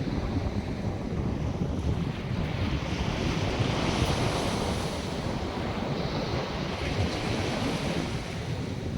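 North Sea surf breaking and washing on the beach, with wind buffeting the microphone as a low rumble.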